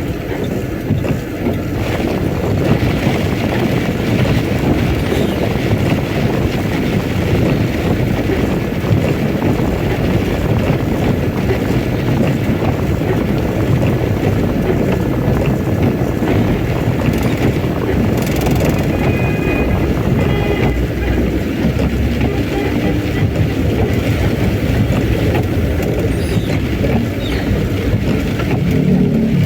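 Heavy rain and strong wind as a vehicle travels along a road: a loud, steady wash of rain, wind and road noise, with a brief sharper, higher sound about eighteen seconds in.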